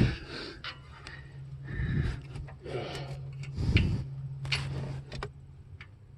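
Scattered clicks and thumps from hands and parts being handled in a car's engine bay, over a steady low hum.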